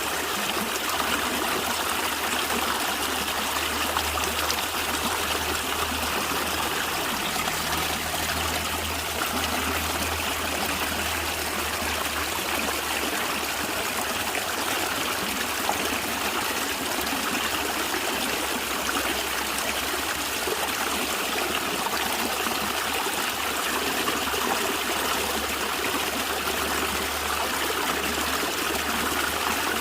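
A stream of water running and gurgling, a steady even rush without pauses.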